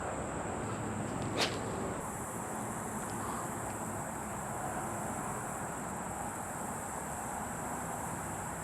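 Outdoor pond-side ambience: a steady high-pitched insect drone over wind rumble on the microphone, with a single sharp click about a second and a half in.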